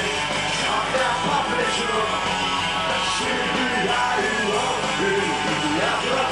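Punk rock band playing at a steady loud level, with yelled voices over the music.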